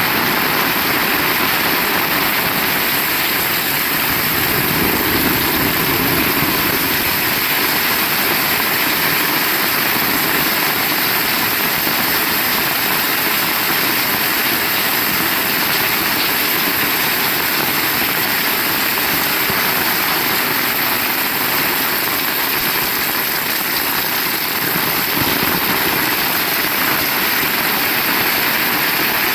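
Heavy rain falling steadily in a continuous, even hiss.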